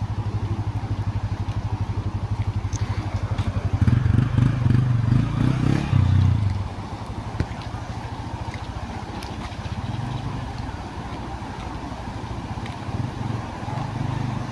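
A motor vehicle's engine running with a steady low pulsing. It grows louder about four seconds in for a couple of seconds, then settles back.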